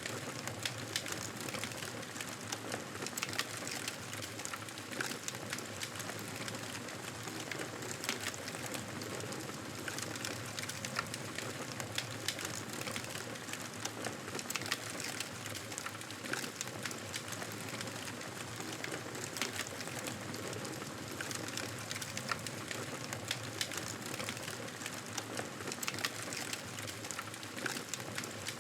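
Fireplace fire crackling: irregular sharp pops and snaps over a steady hiss.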